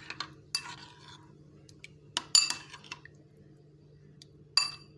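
A spoon clinking against a bowl while chicken is stirred into its marinade: a few separate ringing clinks, the loudest about two and a half seconds in, with soft stirring between.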